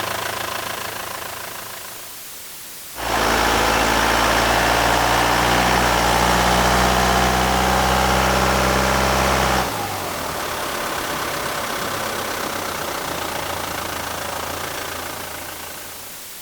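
Truck engine sounds in separate short recordings: one fades out, then a truck engine runs steadily with a strong low hum for about seven seconds and cuts off suddenly, followed by a quieter truck sound that fades away near the end.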